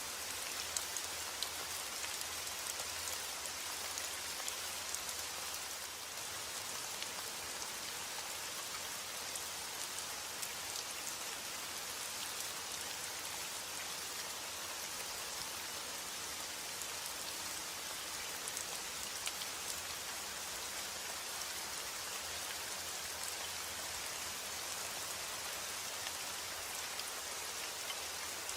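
Steady rain: an even hiss with scattered sharper drop hits.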